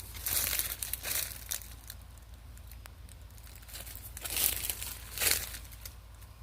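Dry leaves and brush crackling and rustling in a few irregular bursts, the loudest near the start and at about four and five seconds in.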